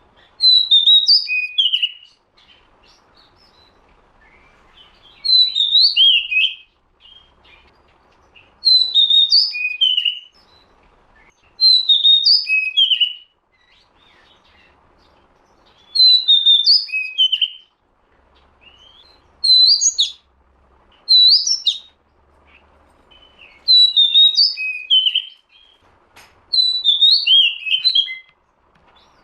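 Oriental magpie-robin (kacer) song used as a lure call: short, loud phrases of quick whistled notes sliding up and down, about one phrase every three seconds with brief quiet gaps between.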